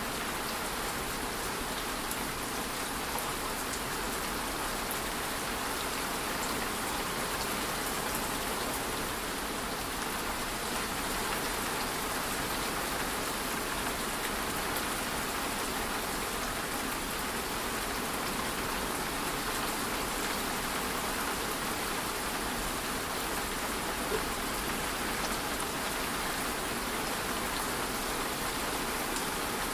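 Steady rain falling, an even hiss of drops with no change in strength, and a single brief click late on.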